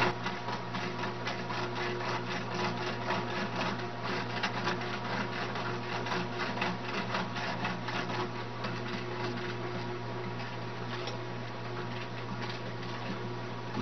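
A motorised machine running steadily: a constant low hum with a dense, rapid clicking or rattling over it.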